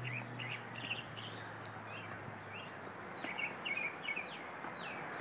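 Songbirds chirping: many short, quick calls that sweep down in pitch, over a faint low hum that fades out about halfway through.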